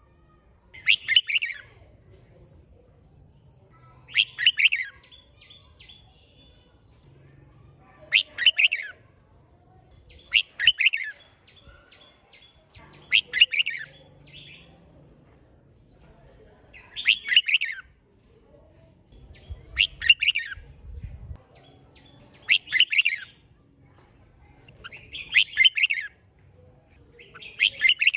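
Red-whiskered bulbul singing short, quick song phrases, one every two to three seconds, about ten times.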